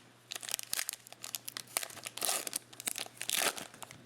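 Trading-card pack wrappers crinkling and tearing as packs are opened, with cards clicking as they are handled. The two loudest rustles come about two and three and a half seconds in.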